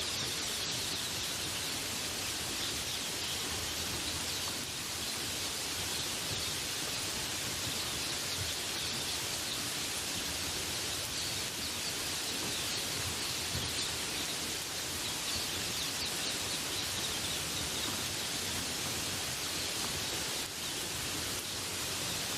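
Steady rain falling in a forest, an even hiss, with birds chirping faintly behind it.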